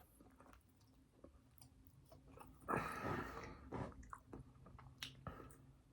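A person chewing food at close range, faint, with soft mouth clicks and a louder stretch of chewing about three seconds in.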